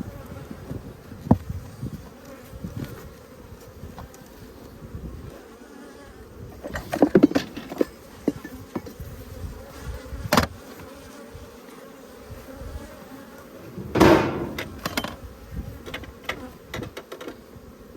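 Honeybees buzzing steadily around an open hive, with several knocks and clunks of wooden hive boxes and lids being handled as the hive is closed up; the loudest clatter comes about three-quarters of the way through.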